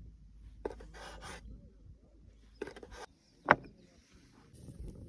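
Hand work while preparing food: short scraping and rubbing strokes on wood, with a few sharp knocks, the loudest about three and a half seconds in.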